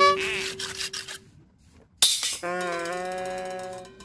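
Edited-in, music-like sound effects: a held tone that stops after about a second, a short noisy burst about two seconds in, then a held note with a slight dip in pitch that fades out near the end.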